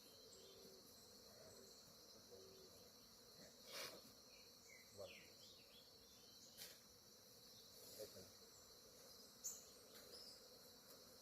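Faint, steady high-pitched insect chorus of crickets or similar insects, with a few faint clicks and brief chirps about five seconds in.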